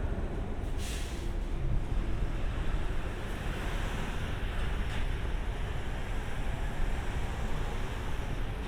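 Steady low rumble of an E127 series electric train, with a short hiss of released air about a second in and a fainter one a few seconds later.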